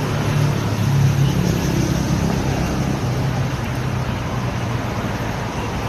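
Steady low rumble and hum of motor vehicle noise.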